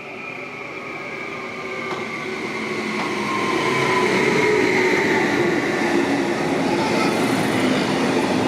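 A train running into the station, growing louder over the first four seconds and then holding steady, with several whining tones that slide slowly lower.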